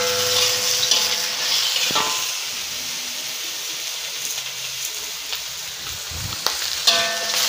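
Cubes of boiled pork fat sizzling in a hot, dry wok, frying in their own fat without cooking oil. A metal spatula clanks and scrapes on the wok, the metal ringing, at the start and again near the end.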